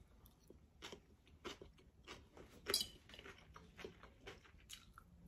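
Faint crunching of a person chewing a mouthful of crisp romaine lettuce salad, about two crunches a second, with one louder crunch a little before the middle.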